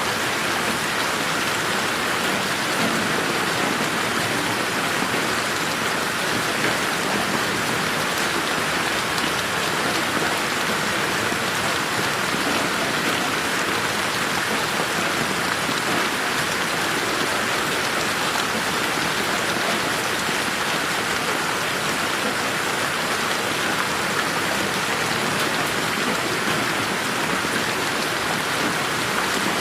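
Steady rain falling on a garden: an even, dense hiss with no thunder, processed as 8D audio that pans around the listener.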